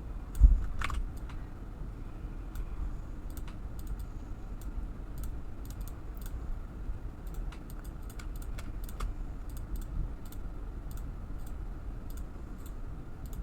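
Typing and clicking on a computer keyboard, irregular key clicks scattered throughout, with a single low thump about half a second in.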